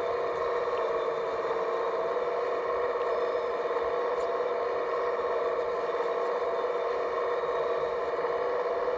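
Small electric motor of an RC model's hydraulic pump running steadily, a constant whine that holds one pitch throughout.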